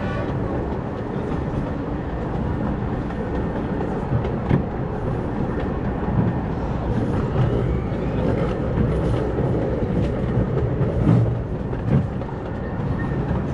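Redwood Valley Railway's 15-inch-gauge steam train running, a steady rumble and rattle of wheels on track with a few sharp knocks along the way.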